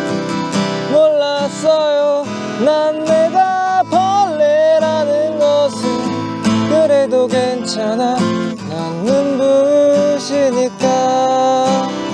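Acoustic guitar strummed in a steady accompaniment while a voice sings a slow melody over it.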